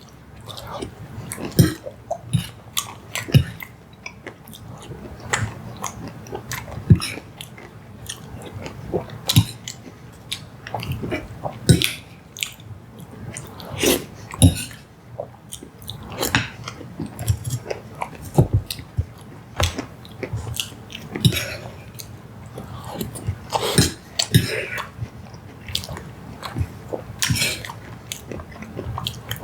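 Close-miked chewing and wet mouth smacks from eating soft dessert, with many short irregular clicks and smacks.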